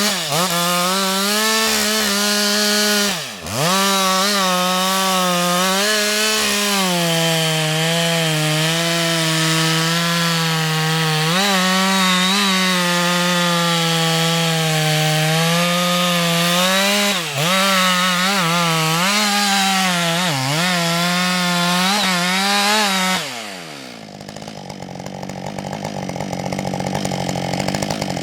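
Husqvarna two-stroke chainsaw held at full throttle cutting wood, its pitch dipping briefly a few times as the chain bites. About 23 seconds in the throttle is released and the engine falls back to idle.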